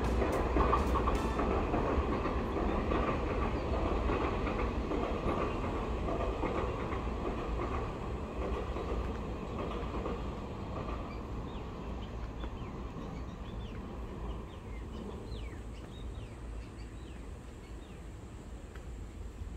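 Passenger train running on the tracks, a steady rumble with wheel clatter that slowly fades away.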